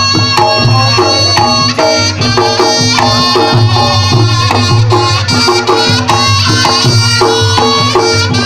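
Reog Ponorogo gamelan music playing at full level: hand drums keep a steady beat under held gong-like tones and a busy, high melody line.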